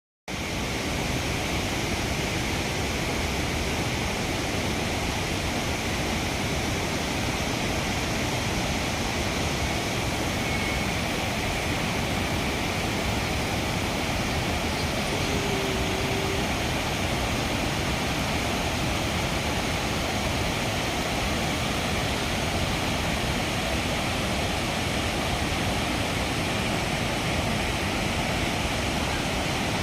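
Steady rush of fast-flowing water, an even roar with no pauses or gusts.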